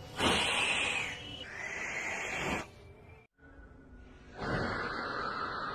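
Matchstick-head powder in a homemade toy cannon burning with a fizzing hiss. There are two rushes of about two and a half seconds each, both slowly falling in pitch, and no bang.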